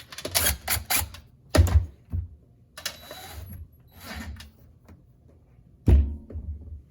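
Clicks, rattles and knocks of shop-vac parts being handled during a repair, with two loud knocks, one about a second and a half in and one near the end.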